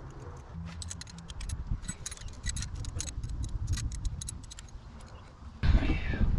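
Irregular light metallic clicks and clinks of hand tools and engine parts being handled, with a louder scraping rustle starting about five and a half seconds in.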